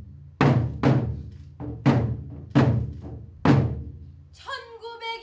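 A deep drum struck about six times in a slow, uneven beat, each stroke ringing out briefly. Near the end a voice starts a long, held sung note.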